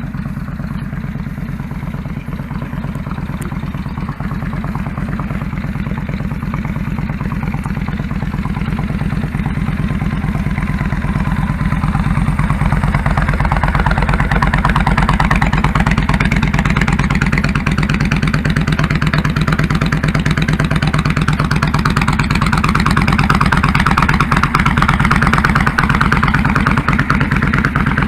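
2001 Kawasaki Drifter 1500's V-twin engine running with a steady beat, growing louder over the first dozen seconds or so and then holding steady.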